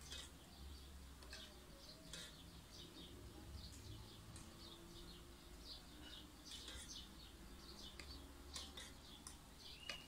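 Faint chirping of small birds: many short chirps repeating through the quiet, with a few faint clicks.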